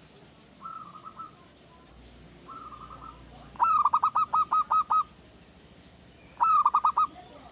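Male zebra dove (perkutut) cooing, a newly caught bird still learning its song: two soft short phrases, then a loud run of about seven quick coo notes about three and a half seconds in, and a shorter run of about four near the end.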